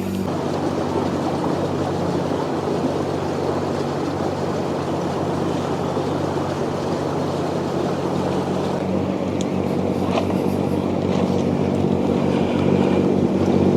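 A sailboat's inboard engine running steadily under way, a low even drone with a rushing noise of water and wind over it, growing slightly louder near the end.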